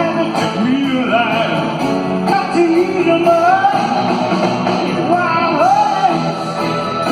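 Live rock-and-roll band playing a song, with singing voices over the band.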